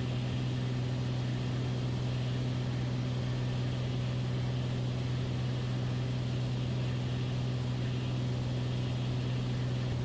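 Cockpit drone of a single-engine Beechcraft Bonanza in flight: the piston engine and propeller running steadily, a constant low hum over a wash of airflow noise.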